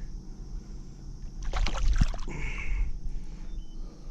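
Water splashing beside a kayak as a hooked bass is landed: a short noisy burst about a second and a half in, lasting under a second, over a steady low rumble.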